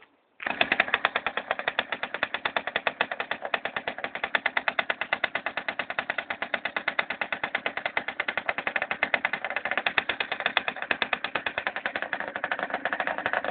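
Motorcycle engine idling with a fast, even beat, cutting in abruptly about half a second in and stopping abruptly near the end.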